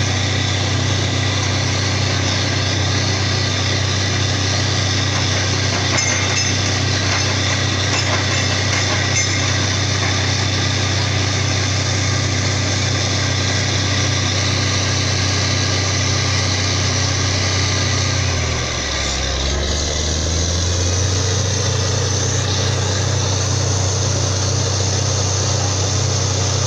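Borewell drilling rig running steadily with a low engine drone and a broad mechanical noise. About two-thirds of the way through, the engine note sinks for a second or two under load, then picks back up.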